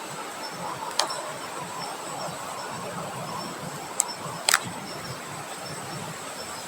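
Wind blowing steadily, with a few sharp clicks about a second in and again near four and four-and-a-half seconds, over faint repeated high chirping.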